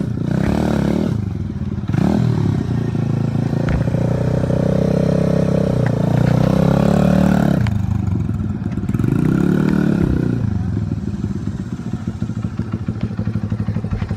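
Honda XR100R dirt bike's single-cylinder four-stroke engine being ridden, revving up and easing off several times. It is highest around the middle and settles to lower revs near the end.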